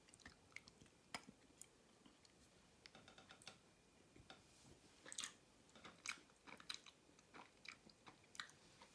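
Faint chewing mouth sounds of a soft, dense protein bar: scattered small wet clicks and smacks, very quiet.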